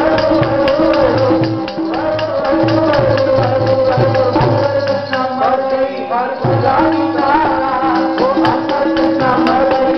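Sikh kirtan: gurbani sung to tabla and a held harmonium tone, with jingling percussion keeping the beat.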